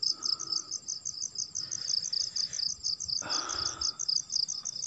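Night insects chirping in a steady high-pitched chorus, pulsing about five times a second, with a brief soft rustle about three seconds in.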